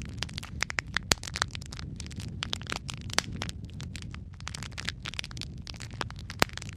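Wood fire crackling in a fireplace: a steady low rumble of burning with irregular sharp pops and snaps.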